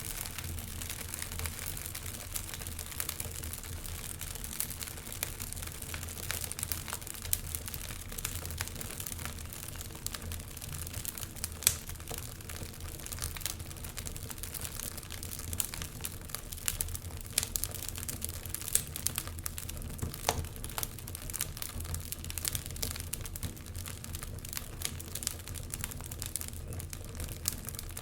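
Wood fire in a fireplace crackling, with irregular small pops and snaps throughout over a steady low rumble.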